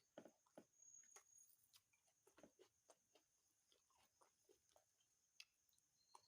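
A person eating chicken curry and rice: faint, irregular chewing smacks and mouth clicks, several a second.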